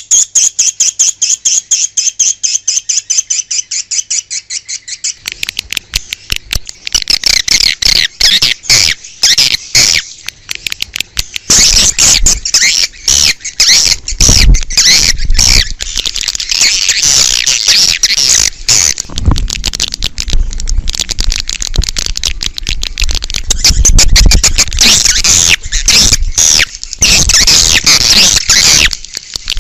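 Swiftlet lure recording: edible-nest swiftlet calls, beginning as a fast, even run of repeated chirps for about five seconds and then turning into dense, overlapping twittering. Low thuds come under the calls now and then in the second half.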